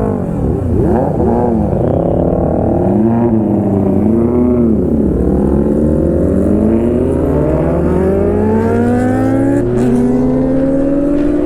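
Kawasaki inline-four superbike engine revving in a run of quick rises and falls, then pulling steadily higher in pitch as it accelerates.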